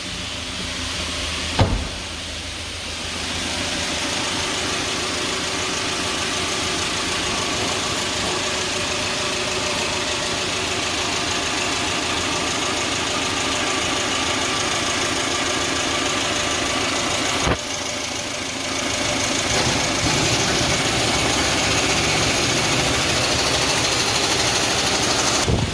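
UMZ-4216 Evotech 2.7 four-cylinder petrol engine idling hot and steady with no lifter tapping, its faulty hydraulic lifter freshly replaced. A cab door thumps shut about two seconds in, and the radiator cooling fan comes on in the last few seconds.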